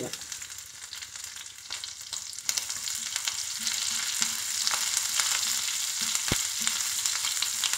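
Sliced green chillies sizzling and crackling in hot ghee in a pan, stirred with a wooden spatula; the sizzle builds over the first few seconds. One sharp tap about six seconds in.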